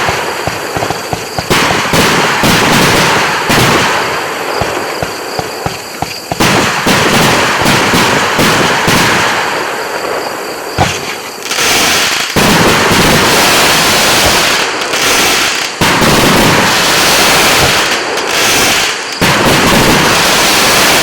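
"Thousand Chrysanthemums" fan-shaped fireworks battery firing: rapid shots and bursts with dense crackling, loud throughout, surging louder several times.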